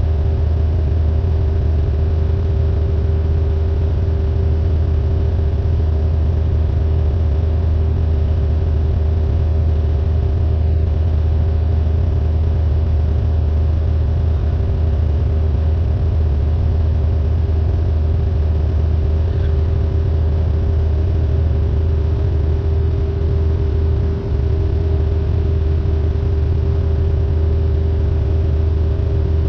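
Cessna 172N's four-cylinder Lycoming O-320 engine and propeller droning steadily at constant power, a loud even hum with no change in pitch.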